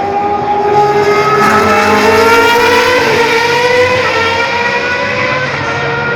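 Vintage Formula One racing car's engine running at high revs, its pitch climbing slowly and steadily as the car accelerates.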